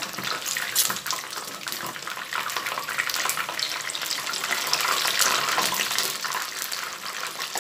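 Flour-coated chicken wings sizzling and crackling steadily in hot oil in a frying pan, stirred up as the pieces are turned over with tongs.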